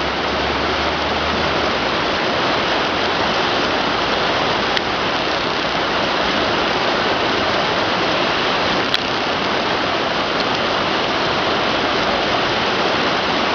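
The Jordan River rushing past in spate, swollen by heavy rain: a steady, loud roar of fast water.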